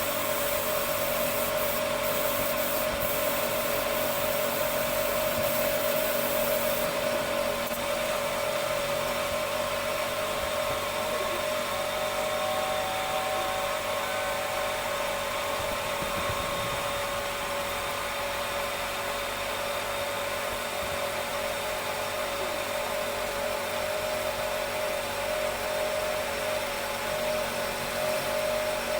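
A power tool's motor running steadily with a constant whine, without pause. Extra high hiss over the first several seconds then drops away.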